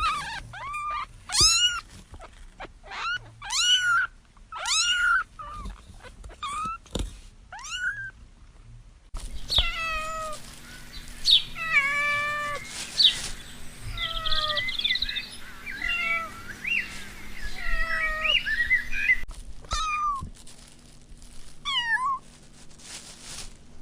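Young pets mewing: short high-pitched cries that fall in pitch, one after another. From about nine to nineteen seconds in, several overlap over a steady low hum.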